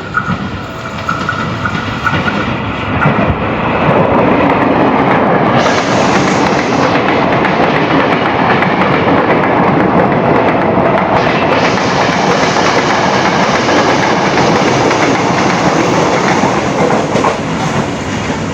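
A train passing at close range, growing louder over the first four seconds, then holding loud and steady and easing slightly near the end.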